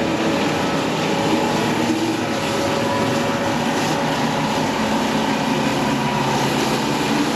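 Stihl RB 400 gas pressure washer engine running steadily under load, with the hiss of the high-pressure water spray on concrete.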